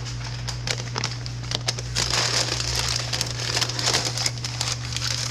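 Paper crinkling and rustling with many light clicks as a shaped sourdough loaf is set into a baking pot. A steady low hum runs underneath.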